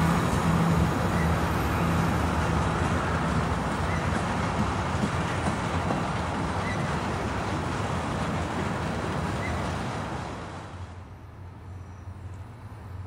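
Freight train of tank cars rolling past, a steady rumble and rattle of steel wheels on rail. About ten seconds in it drops to a much quieter low rumble of a train approaching in the distance.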